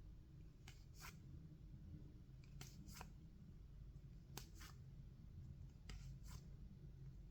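Baseball trading cards being slid off one another by hand: faint, short paper swishes in quick pairs, four pairs about a second and a half apart, over a low steady hum.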